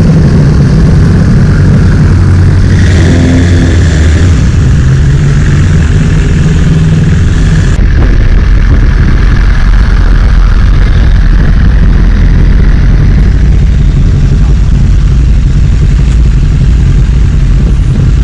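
Motorcycle engine running loud and steady, a low rumble that stays near full loudness throughout.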